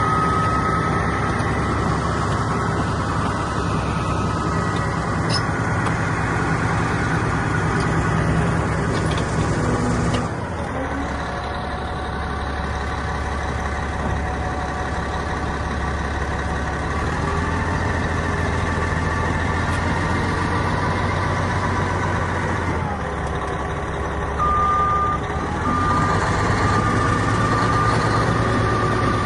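Caterpillar D10R bulldozer's V12 diesel engine running, its note stepping down and back up several times as it changes speed, with a thin steady whine above it.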